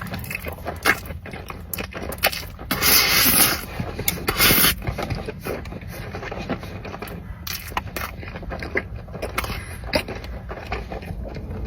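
A person eating spicy Buldak instant noodles: a couple of hissing slurps a few seconds in, with chewing and frequent clicks and scrapes of utensils against the bowl.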